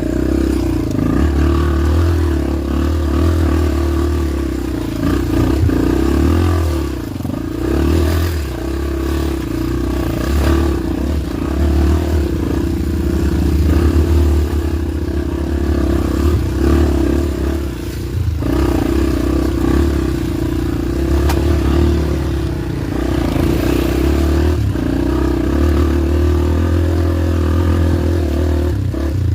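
Honda XR250 dirt bike's single-cylinder four-stroke engine running continuously under load, easing off the throttle briefly a few times.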